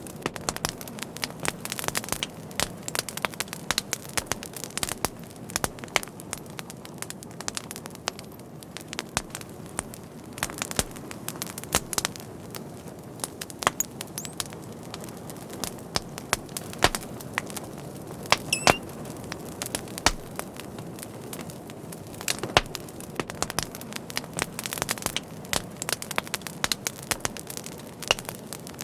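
Wood fire burning with steady hiss and rumble and frequent sharp crackles and pops, a few louder snaps scattered through, and a brief faint high whistle near the middle, typical of gas escaping from the burning wood.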